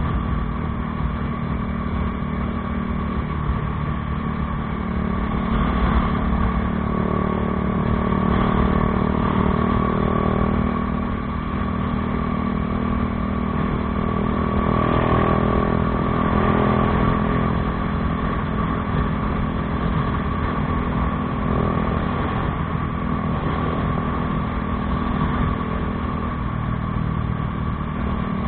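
Bajaj Dominar 400's single-cylinder engine running through an aftermarket Akrapovič exhaust, a steady note that swells louder a few times with the throttle.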